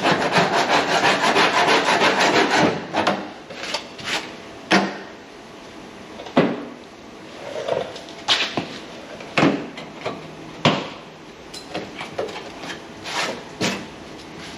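A hand tool scraping and gouging at old filler and rust on a truck cab: a fast rasping run for about three seconds, then a series of separate short scrapes and knocks.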